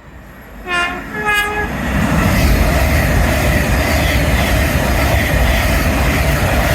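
Train horn sounding two short notes, the second higher, followed by the train running through the station, its loud rumble and rail noise building up and holding.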